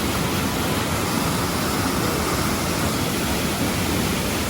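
Steady rush of a waterfall's falling water close by.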